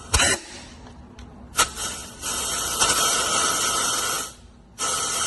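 Compressed air from an air blow gun hissing into the oil port of a 5.7 Hemi to blow out an MDS plug: two short blasts, then a long steady hiss that stops about four seconds in and starts again near the end.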